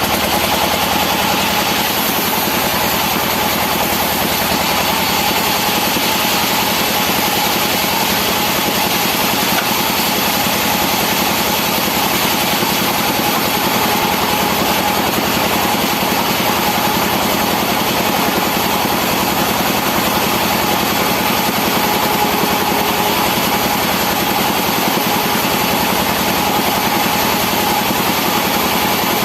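Sawmill machinery running steadily: a constant mechanical drone with a steady whine held through it, without any sudden knocks or breaks.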